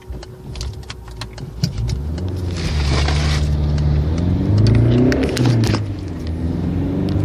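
Peugeot 308's engine, light clicks at first, then from about two seconds in running louder and rising and falling in pitch as it is revved up.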